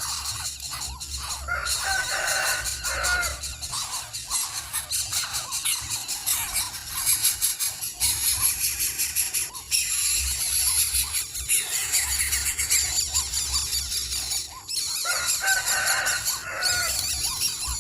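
Shrill, high-pitched animal squealing and squeaking, continuous and busy, with short chirping sweeps near the start and again near the end.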